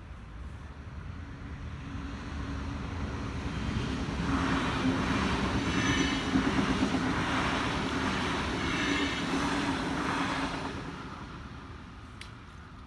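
DB Class 425 electric multiple unit passing at speed: its wheels and running gear rise to a peak and then fade away, with a steady traction-motor hum under the rail noise.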